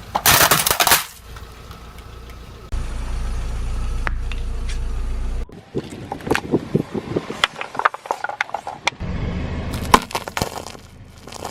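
Car tyre rolling over and crushing brittle objects: a loud crunch in the first second, then a low engine rumble, then a run of sharp cracks and snaps as things break under the wheel.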